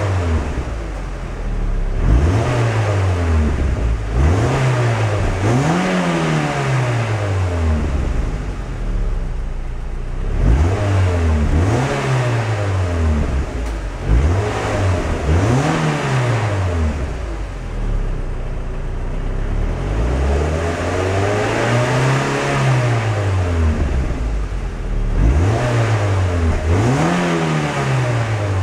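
2010 Mazda MX-5 Miata's 2.0-litre four-cylinder engine revved repeatedly while parked, heard from behind at its dual exhaust tips. There are about ten rev blips, each rising and falling back, with one longer, slower rev about two-thirds through.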